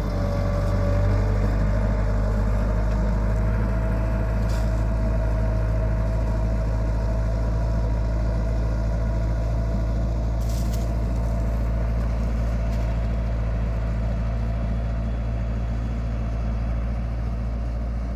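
An engine running steadily with a heavy low rumble, its faint whine rising slowly in pitch, like a vehicle being driven.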